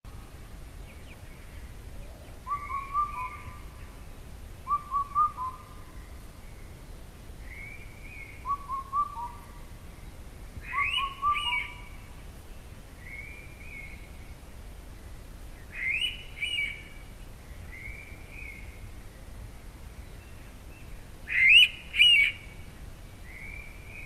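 Indian pitta calling: a loud two-note whistle given three times, the last one loudest. Softer calls of other birds come in between.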